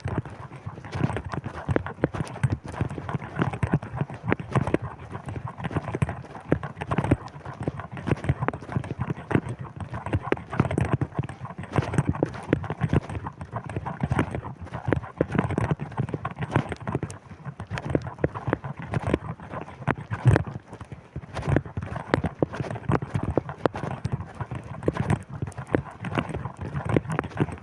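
Footsteps while walking: a continuous, irregular run of crunching knocks.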